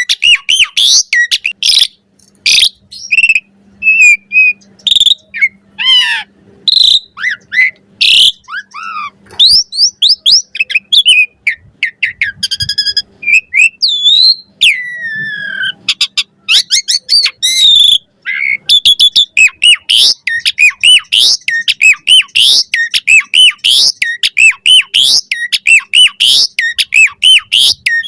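Pied starling (jalak suren) singing a fast, varied song of whistles, rising and falling sweeps, chatter and clicks, with hardly a pause.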